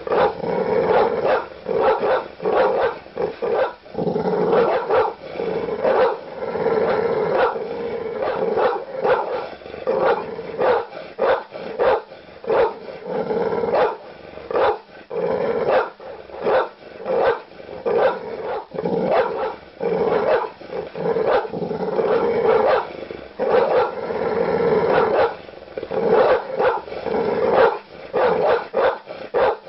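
Large dog barking aggressively in deep, loud barks, fired off in quick volleys with hardly a pause.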